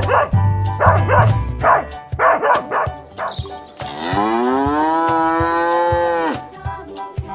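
A dog barks several times, then a cow gives one long moo, about two seconds, rising in pitch at the start and then held steady. Background music with a regular beat runs underneath.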